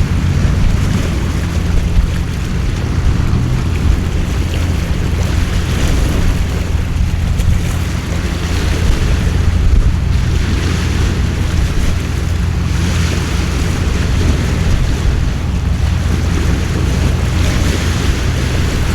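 Heavy rain and gusting wind in a storm, with a deep, continuous rumble of wind buffeting the microphone; the hiss swells and eases every few seconds with the gusts.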